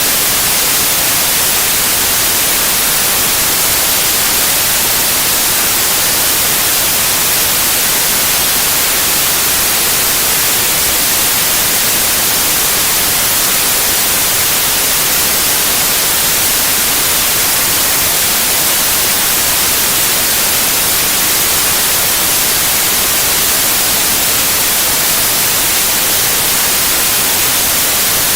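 Steady, loud white noise: an even hiss with no change in level.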